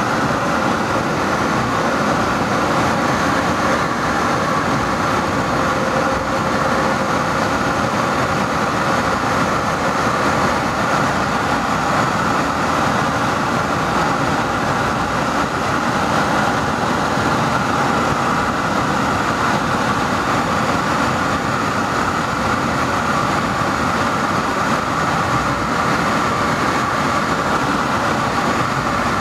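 Metra commuter train running at speed, heard from inside the car: a steady rumble and rush of wheels on rail with no distinct beat of rail joints.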